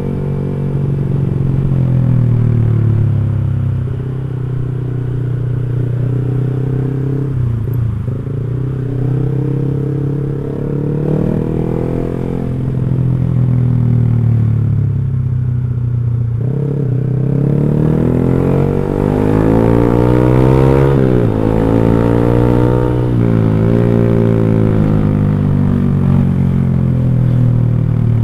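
Motorcycle with an X1 Speed Pro One aftermarket exhaust, ridden under way: the exhaust note climbs in pitch and drops back several times as the rider accelerates and eases off, with a sharp rev up and fall about twenty-one seconds in.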